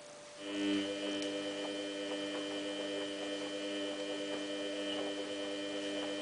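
Samsung WF8804RPA washing machine giving off a steady electrical hum that starts about half a second in, with no clear sound of water running in.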